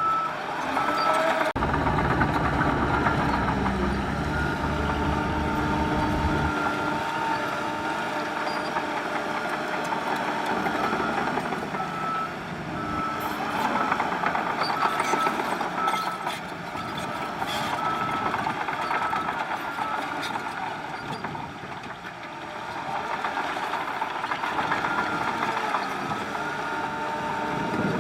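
Heavy diesel construction machinery running, with a vehicle's reversing alarm beeping repeatedly over it. A heavy low rumble swells during the first several seconds, then the engine noise settles.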